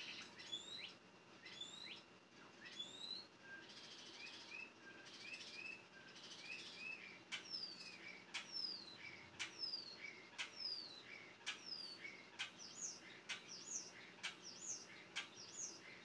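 Birds chirping: a long run of short, high, downward-sliding chirps that come faster in the second half, with sharp clicks among them.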